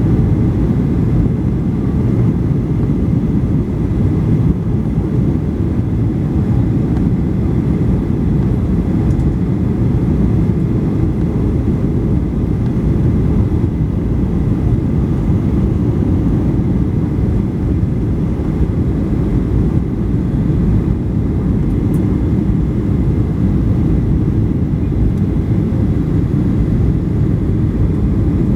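Steady low roar of a Boeing 737-800 in flight, its CFM56-7B engines and airflow, with faint steady high whine tones above it.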